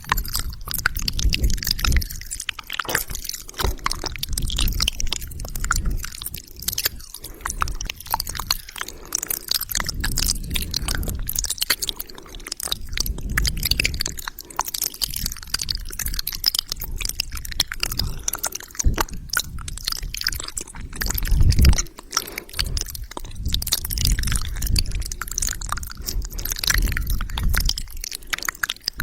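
Close-miked ASMR wet mouth sounds: a dense, continuous run of quick wet clicks and smacks, with low rumbling swells underneath.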